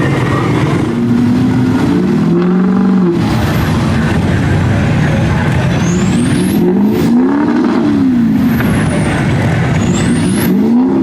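Mud-bogging truck engines revving, their pitch rising and falling several times over a steady, loud din of engines.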